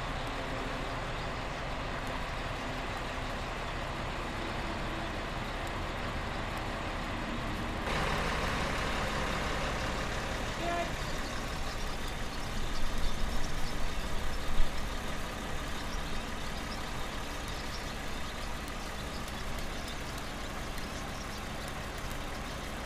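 A heavy engine running steadily. It gets a little louder about a third of the way in, with uneven louder surges around the middle.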